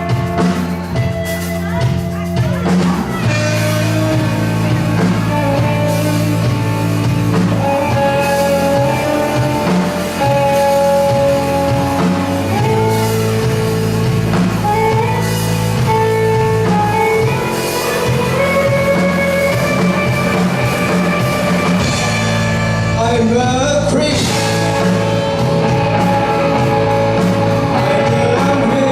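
Live rock band playing: electric guitar over bass and drum kit, with some singing. Near the end a note slides upward.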